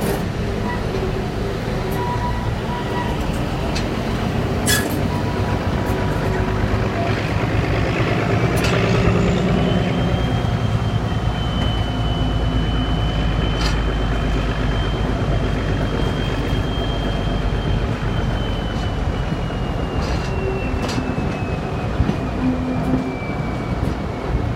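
Steady rumble of a moving train hauled by the Clayton Class 17 diesel locomotive D8568, heard on board, with scattered sharp clicks. About nine seconds in, a high thin whine rises, holds, then slowly falls away toward the end.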